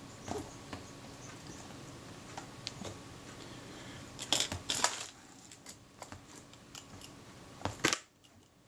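Small metal clicks and scrapes of tools and parts being handled on a Kodak Retina IIIc camera body, with a louder cluster of sharp clicks about four to five seconds in and another near the end.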